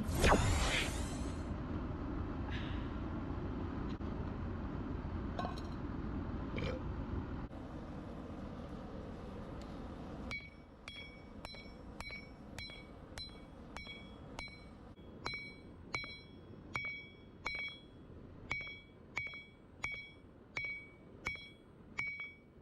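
A hand hammer forging a hot Damascus billet on a thick steel plate used as an anvil. From about ten seconds in there is a steady series of blows, roughly three every two seconds, each with a bright metallic ring from the plate. Before the hammering there is a steady rushing noise.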